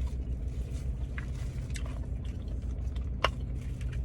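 Mouth sounds of someone chewing king crab meat, with faint wet crackles and a sharp click about three seconds in, over a steady low hum inside a car.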